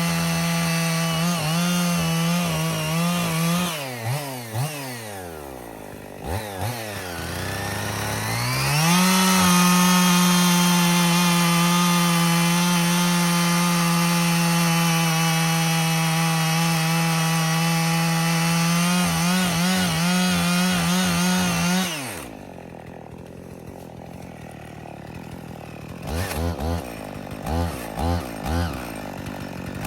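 Husqvarna 55 two-stroke chainsaw running at full throttle, bucking wood. The revs drop to idle and climb back, hold high for about thirteen seconds, then fall to idle again near the end, followed by a series of short blips of the throttle.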